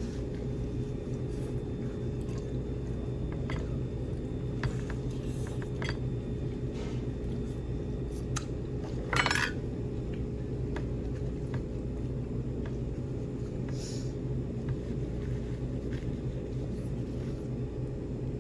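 Dishes and cutlery at a meal: scattered faint clicks and clinks over a steady low room hum, with one louder, brief scrape or clatter about nine seconds in.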